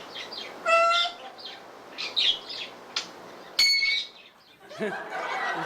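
African grey parrot whistling and chirping. There is a pitched beep-like whistle just under a second in, and a click followed by a high, steady electronic-sounding tone about three and a half seconds in. Near the end come mumbled, talk-like parrot sounds.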